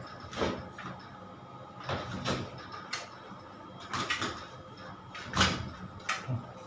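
About five irregular scraping strokes, each short, spaced roughly a second apart, with the one near the middle loudest.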